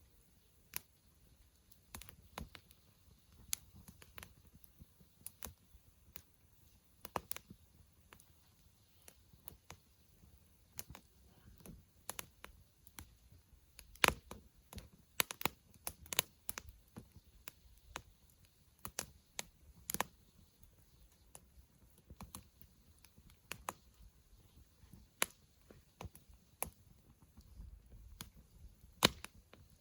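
Wood campfire crackling: irregular sharp pops and snaps, with a denser run of louder pops in the middle.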